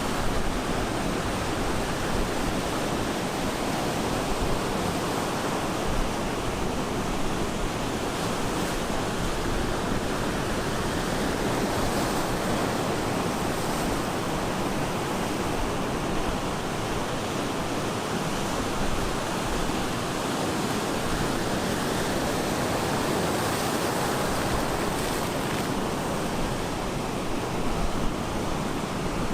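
Ocean surf breaking on the shore: a steady, dense wash of wave noise with only slight rises and falls.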